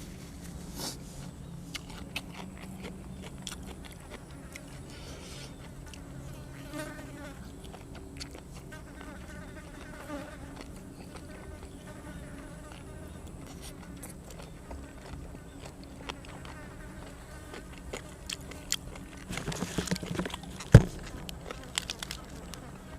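A fly buzzing around, its pitch wavering as it moves, over scattered small clicks and crunches of eating. A single sharp knock comes about three-quarters of the way through.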